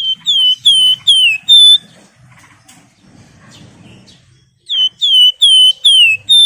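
Wergan Jawa (flamboyan) singing: two loud phrases of five clear whistled notes, each note sliding down in pitch and the last of each phrase held on a steady higher note, with a pause of about three seconds between the phrases.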